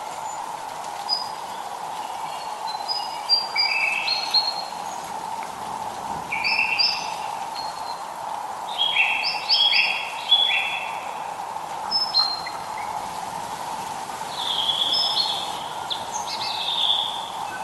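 Small songbirds chirping in short, varied phrases over the steady hiss of light rain, the calls coming every second or two, including a quick run of three chirps about halfway through.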